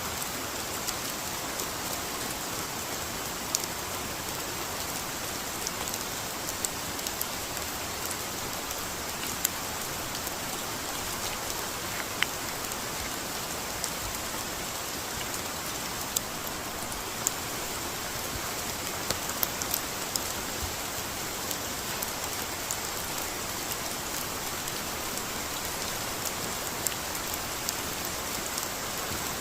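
Steady rain falling, an even hiss with scattered close drops ticking sharply now and then.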